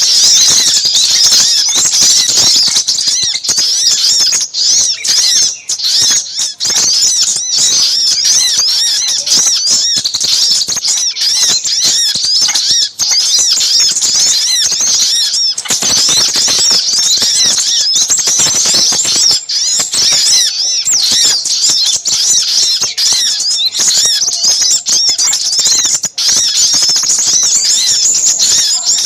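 Bird-lure recording of a noisy gathering of small birds, sunbirds of the sogok ontong and sepahraja kinds. Many high, quick chirps and trills overlap without a break, a busy, agitated chatter.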